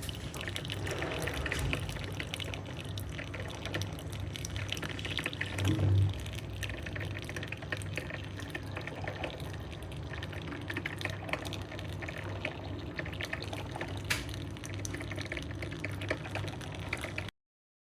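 Portable mini coffee machine brewing: its small pump hums steadily while coffee sputters and drips into the cup. The sound cuts off suddenly near the end.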